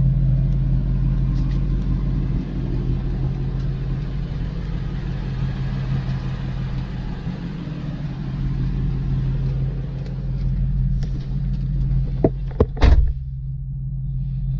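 A car's exhaust running at a steady low pitch with a deep rumble that holds even and does not rev. Near the end come a few sharp clicks and one brief louder crack.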